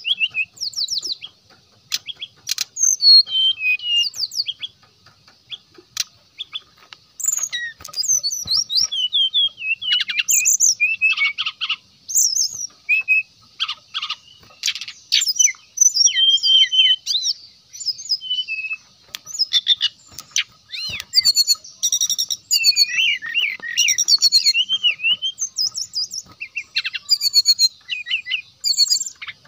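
Brown-chested jungle flycatcher singing a fast, varied song of sharp chirps, short whistles and rattling trills, with short pauses, over a faint steady high hiss.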